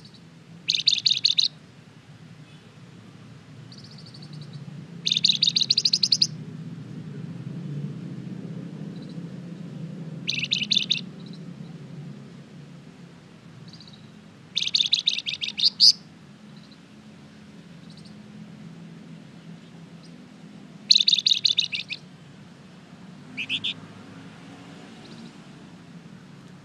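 A flamboyan, as Indonesian bird-keepers call this songbird, singing vigorously in short bursts of rapid, high chattering notes: six phrases, each under two seconds, spaced a few seconds apart, over a faint low steady hum.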